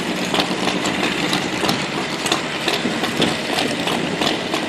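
Drag-racing engine idling unevenly, with irregular sharp pops and crackles.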